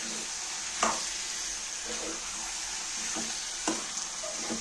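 Chicken pieces frying and sizzling in a steel kadai while a metal spoon stirs them, with a few short scrapes and clinks of the spoon on the pan, the loudest about a second in. The raw chicken has just gone into the hot oil, the first stage of cooking a chicken curry.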